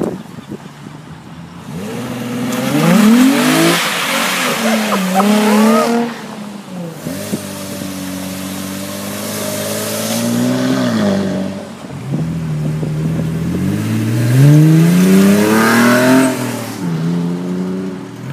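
Car engines revving and accelerating, the pitch climbing and dropping back several times, with two loud surges: one in the first third and one near the end.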